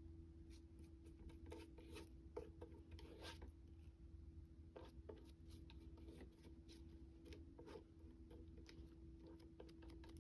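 Faint paper handling: soft rubbing and rustling of paper with light scattered clicks and taps, over a steady low hum.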